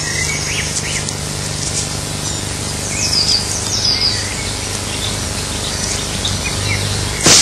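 Birds chirping over a steady background hiss, with a couple of quick falling chirps about three to four seconds in. A sharp click sounds near the end.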